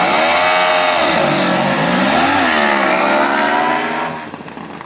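Racing lawn mower engine revving hard, its pitch dipping and rising several times as it accelerates. It is loud, then drops away sharply about four seconds in.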